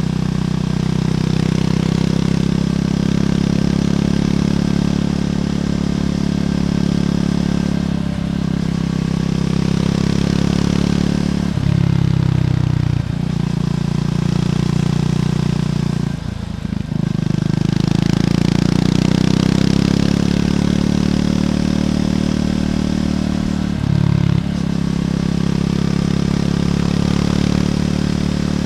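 Triumph Scrambler 400X's single-cylinder engine running through its stock exhaust under way. The note drops out for a moment several times as the gears are shifted, with a short throttle-off dip around the middle.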